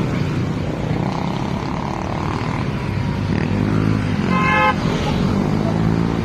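Motorcycle engine running on the road, with a short horn beep a little past four seconds in.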